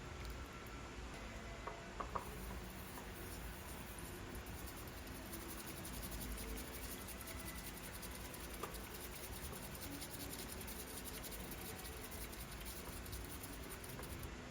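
Whisk frothing matcha in a bowl: a fast, even scratching that starts about two seconds in, after a couple of small clicks, and stops near the end.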